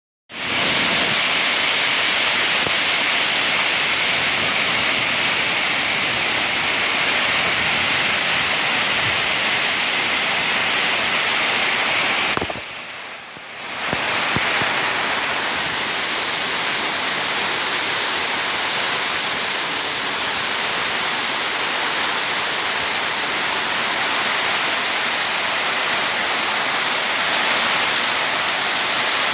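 Heavy rain pouring down in a thunderstorm, a loud, steady, dense hiss that drops away for about a second near the middle before resuming.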